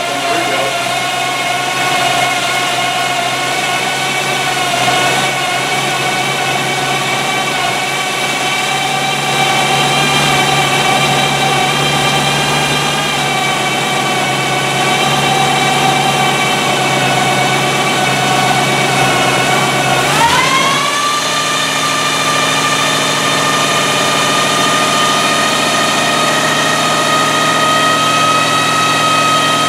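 Freshly rebuilt 350 small-block Chevrolet V8 idling steadily on its first run. About twenty seconds in, the idle quickly picks up and then holds at a higher speed while the ignition timing is being set by ear.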